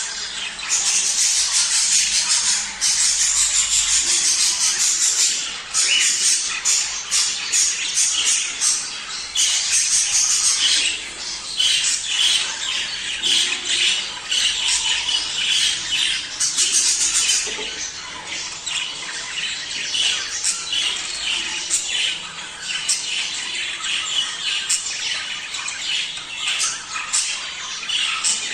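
A flock of budgerigars chattering: a dense, continuous mix of rapid chirps, squeaky warbles and squawks from many birds at once.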